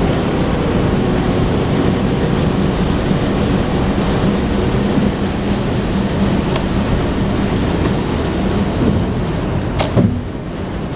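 Car driving: steady engine and road noise, with a sharp knock about ten seconds in.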